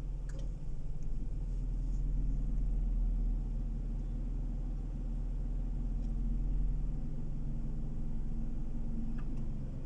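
Car driving along, heard from inside the cabin: a steady low engine hum over road rumble.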